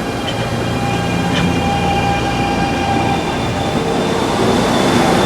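A passenger train running past on the electrified Northeast Corridor: a steady rail rumble and hiss with a high steady whine on top, growing slightly louder.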